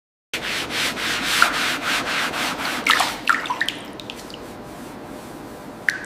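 Rapid, rhythmic sanding strokes on a rusted surface, about five a second, stopping about three seconds in, followed by a few sharp clicks.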